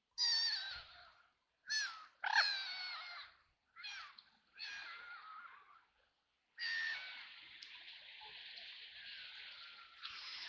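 Ducks quacking: five separate harsh calls in the first five seconds, then a longer continuous stretch of calling from about six and a half seconds in.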